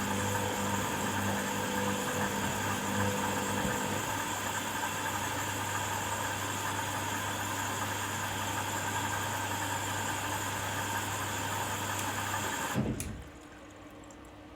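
Hoover washing machine running its first rinse on the Cottons programme: a steady mains hum with hissing noise, which cuts off with a click near the end, leaving it much quieter.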